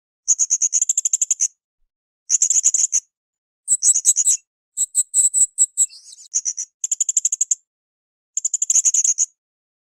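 Blue-crowned hanging parrot (srindit) song: short bursts of rapid, very high-pitched chattering trills, about ten notes a second, each burst lasting about a second with silent gaps between. The burst about five seconds in is longer and more varied.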